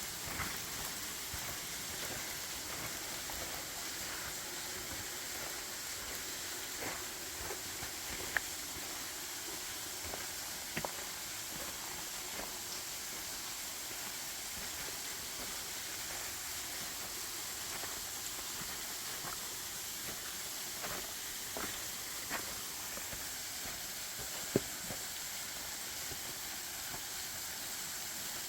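Steady rushing hiss of a creek's flowing water, with a few sharp snaps standing out now and then.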